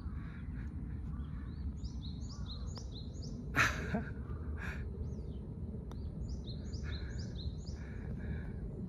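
Birds singing: runs of short, quickly repeated chirps, one group in the first half and another in the second half, over a steady low background rumble. A short sharp noise, the loudest sound, comes about three and a half seconds in.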